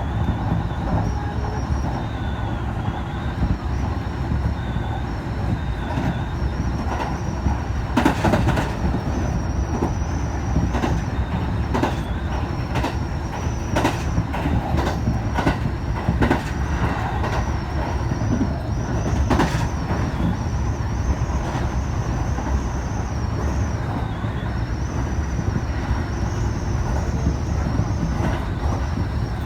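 Train running at speed: a steady low rumble with irregular clacks and knocks from the wheels over the rails, and a thin high whine that wavers and comes and goes.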